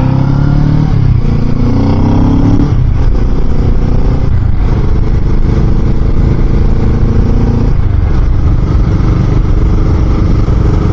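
Kawasaki Z650RS parallel-twin motorcycle engine running under way. The engine note rises over the first few seconds, drops suddenly, holds steady, and falls again near the end.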